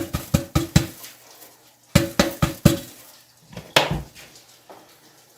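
Cake pan knocked repeatedly against a surface to shake out the excess sugar dusted over its oiled inside: a quick run of knocks, each with a short ring, then a group of four about two seconds in and one last knock near four seconds.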